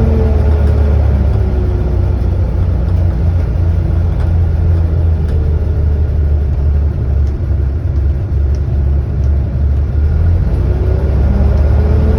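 Volvo B7TL bus's six-cylinder diesel running under a heavy low rumble, with its 'hoover' whine falling in pitch near the start as it eases off and rising again near the end as it pulls away.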